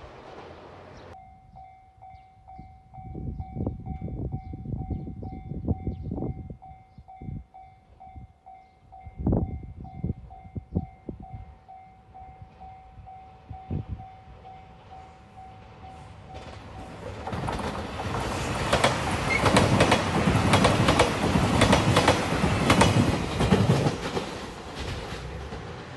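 A level-crossing warning bell dings in a steady quick repeat, with scattered low rumbles under it. From about two-thirds of the way in, a JR Shikoku 2700 series diesel train passes close by, its wheels clacking over the rail joints. This is the loudest part, and it fades just before the end.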